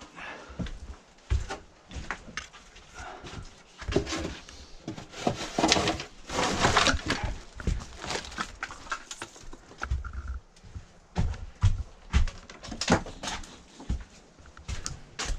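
Shovels scraping and scooping through piled debris, with repeated knocks and clatters of loose junk. The scraping is loudest about halfway through.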